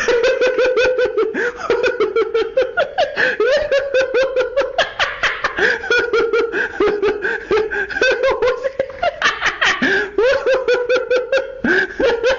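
Laughter sound effect: a high-pitched voice laughing in a fast, continuous run of short 'ha' pulses, with two brief breaks near the end.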